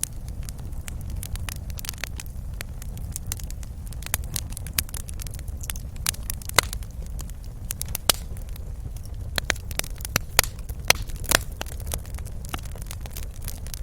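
Wood fire burning in a fireplace: a steady low rumble of flame with irregular sharp pops and crackles, a few louder snaps in the second half.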